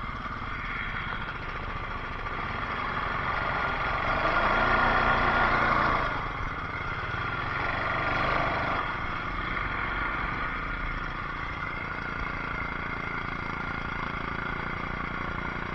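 ATV engine running while riding through sand, pulling harder and louder from about three seconds in, easing off around six seconds, then rising again briefly near eight seconds.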